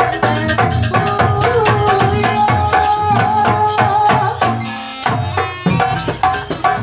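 Javanese gamelan music for a wayang show: rapid hand-drum strokes under metallophone and melodic lines, with a short lull about five seconds in before the drumming picks up again.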